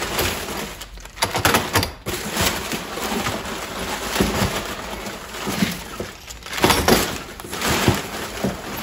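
Rustling and knocking as a parcel of parts is unpacked and handled: an irregular run of scrapes and short sharp knocks.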